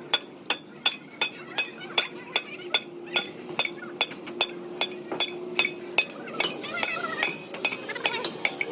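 Hammer striking metal in a steady rhythm, about three blows a second, each with a short metallic ring.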